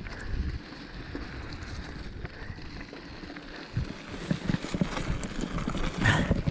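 Mountain bike rolling over a bumpy dirt trail: tyre rumble on the ground with irregular rattles and knocks from the bike, and a harder jolt about six seconds in.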